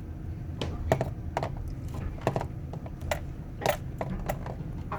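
Low steady rumble of a vehicle idling, heard from inside the cab, with about ten irregular sharp clicks and taps scattered through it.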